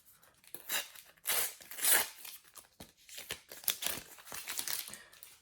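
Topps sticker packet wrapper being torn open and crinkled by hand: irregular rustling crackles with sharp little clicks, loudest about two seconds in.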